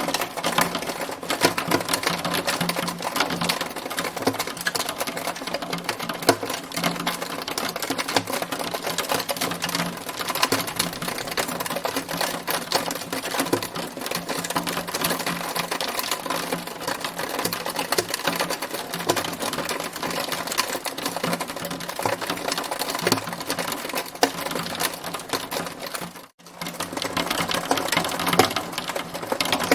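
Hailstones pelting hard surfaces in a storm: a steady, dense rattle of rapid clicks and taps. It cuts out for a split second near the end.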